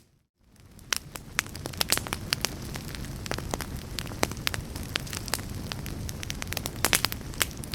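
Wood fire in a fireplace crackling, with many sharp, irregular pops and snaps over a steady low rumble of flames. The sound drops out almost to silence at the very start and fades back in within about a second.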